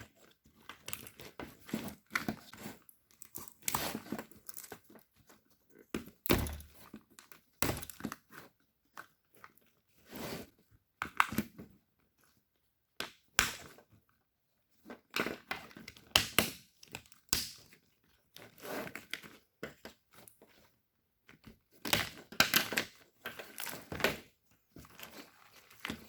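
Plastic wiring-harness loom being cut and torn off a car engine harness: irregular crackling and tearing of plastic with occasional knocks, in uneven bursts separated by short pauses.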